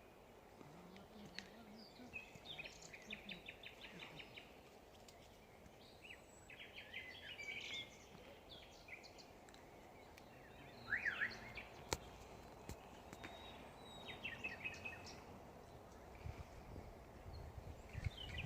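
Birds singing and calling: several short bursts of fast trills and chirps, some falling in pitch, over a steady faint background hiss.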